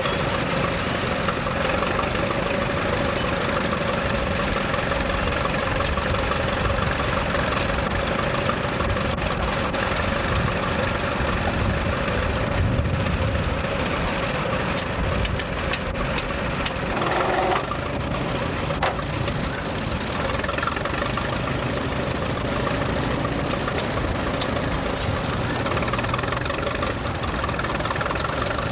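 Vintage tractor engines running steadily, with a steady drone.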